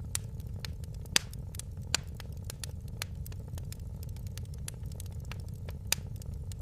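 Wood fire in a fireplace crackling, with a dense scatter of small snaps and a few louder pops: one about a second in, another at about two seconds and one near the end. A low, steady rumble runs underneath.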